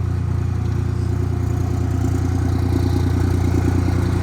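Second-generation Dodge Ram 3500's 5.9 Cummins turbo-diesel inline-six idling steadily while cold, in its three-cylinder idle: half the cylinders are cut out during warm-up.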